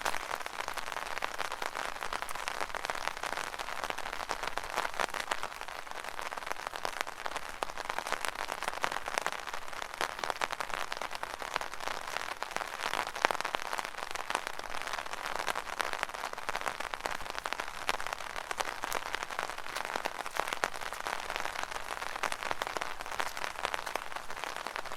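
Rain falling steadily on an umbrella: a dense, even crackle of many small drop impacts on the canopy.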